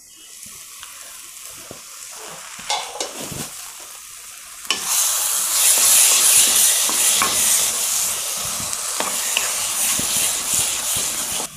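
Baingan bharta frying and sizzling in an oiled pan as it is stirred, with a few scrapes and knocks. The sizzle gets suddenly louder a little under five seconds in.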